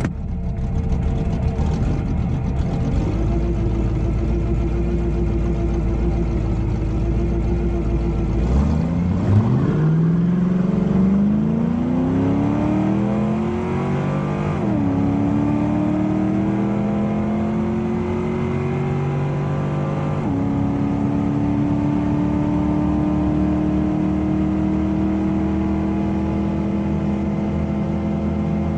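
454 big-block Chevy V8 in a 1971 VW Beetle rumbling at the line with its revs held steady, then launched at full throttle about 8.5 seconds in. The pitch climbs sharply, falls at an upshift, climbs again, falls at a second upshift, and then rises slowly as the car pulls past 130 mph.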